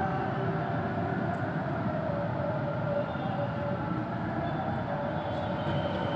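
Steady low background rumble with faint drawn-out tones running through it.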